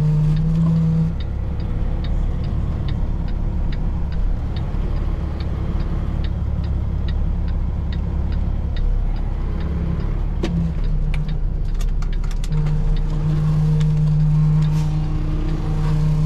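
Semi truck's engine running steadily at low speed during a reversing manoeuvre, with a low drone throughout. A short, regular ticking about twice a second runs through much of the first ten seconds, then stops.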